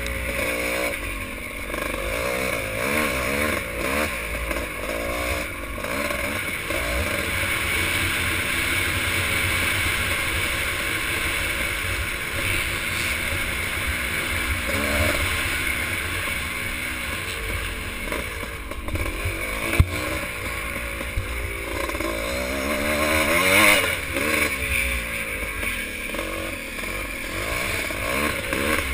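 Motocross motorcycle engines racing, their revs rising and falling again and again with gear changes and throttle, over a constant low rumble. A single sharp click about twenty seconds in.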